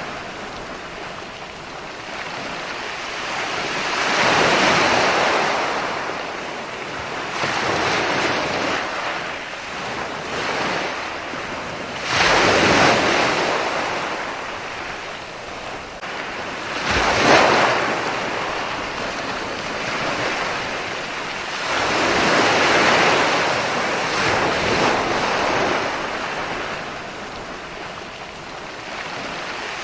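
Ocean waves breaking and washing on a shore, the surf swelling and ebbing every few seconds, with two sharper crashes near the middle.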